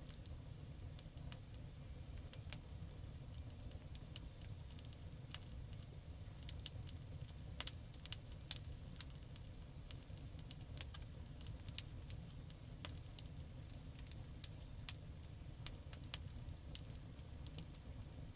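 Campfire burning: a steady low rumble of flames with frequent sharp crackles and pops from the burning wood, a cluster of louder pops about halfway through.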